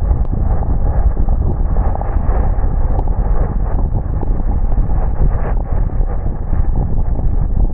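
A car driving on a wet road in the rain, heard from inside: a steady low rumble of tyres and engine with many small irregular ticks of raindrops.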